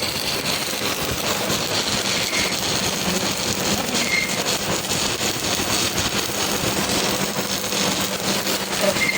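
Steady, loud shop machinery noise: an even rushing, crackly noise with a faint low hum underneath, holding level throughout.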